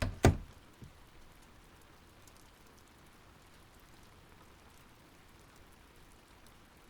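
Steady, faint rain hiss, with two sharp knocks in quick succession right at the start.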